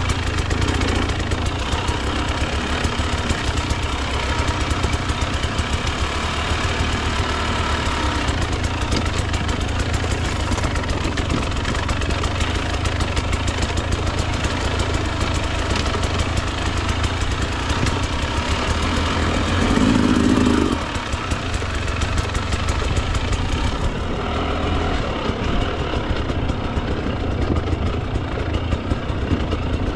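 Husqvarna TE 300 two-stroke dirt bike engine running steadily on the trail, with a brief louder burst of throttle about two-thirds of the way through.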